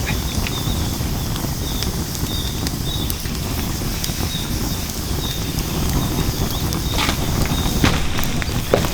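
Wood fire burning in a fire pit, crackling with scattered pops over a steady low rumble, with a few louder snaps near the end.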